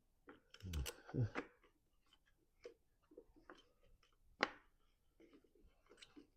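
Scattered light clicks and taps of small mower parts and hoses being handled by hand, the sharpest click about four and a half seconds in.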